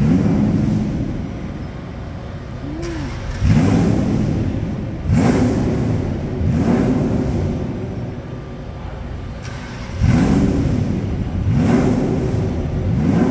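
Ferrari P4 race car's engine being blipped, about seven short throttle blips that each rise and fall in pitch over a rough idle. This is the engine under light throttle while the car is manoeuvred at walking pace.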